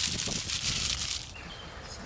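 Crinkly rustling of something being handled, stopping abruptly about a second and a quarter in.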